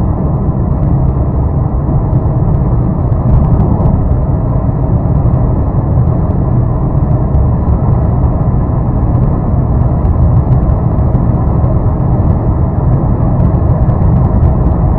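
Diesel sedan driving at speed: a steady, loud rumble of engine, tyres and wind.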